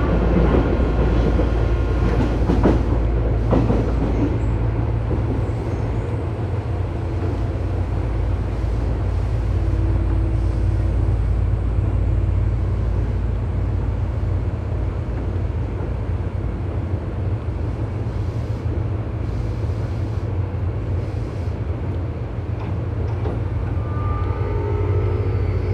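Tobu 9000-series electric train running, heard from inside motor car MoHa 9204 above its armature chopper control unit, which makes an abnormal noise. There is a steady low hum and a couple of sharp wheel clicks over rail joints early on. Near the end, rising electrical tones from the chopper and traction motors come in.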